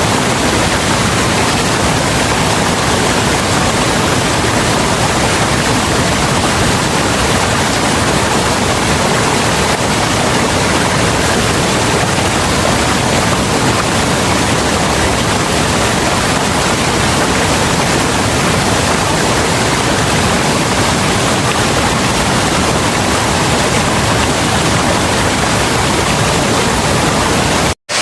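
Waterfall's steady, loud rush of falling water. It breaks off for an instant near the end.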